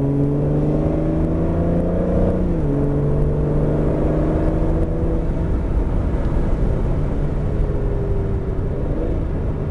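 Aston Martin engine heard from inside the cabin under hard acceleration, its pitch rising. The pitch drops suddenly at an upshift about two and a half seconds in, then rises again. After about five seconds it eases into a steadier note as the throttle comes off, with tyre and road rumble underneath.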